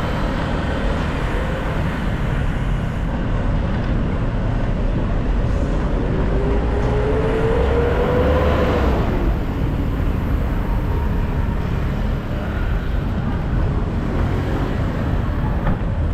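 City road traffic, steady and dense. About six seconds in, one vehicle's engine rises in pitch for a few seconds, then falls away.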